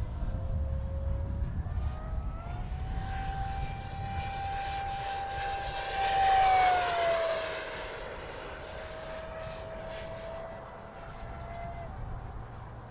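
Electric ducted fan of a 6S-powered 70 mm EDF RC jet whining in flight. The pitch climbs about two seconds in, grows loudest around six to seven seconds and falls in pitch as the jet passes, then holds steady until the whine drops away near the end.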